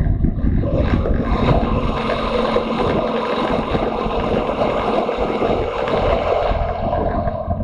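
Motorcycle running at speed, its engine rumble mixed with heavy wind rushing over the microphone; the wind hiss grows stronger about a second in and eases near the end.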